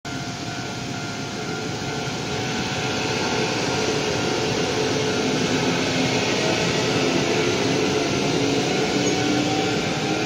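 Train running near a railway level crossing: a steady rumble with faint humming tones that slowly rise in pitch, growing a little louder.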